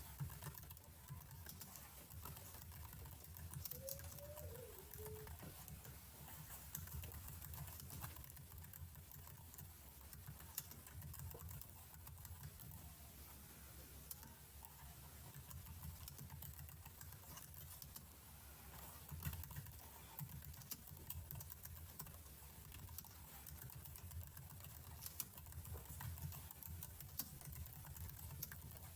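Computer keyboard typing: quiet, irregular key clicks.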